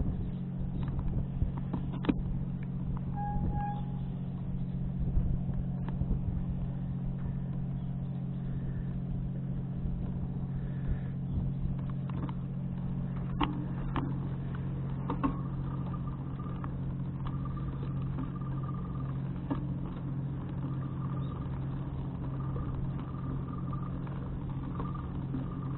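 An engine running steadily at one constant speed, a low even hum. Two short beeps come a few seconds in, and a faint beep repeats about once a second through the second half.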